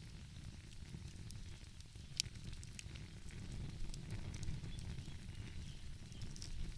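Wood fire crackling, with scattered small pops and one sharp pop about two seconds in, over a steady low rumble.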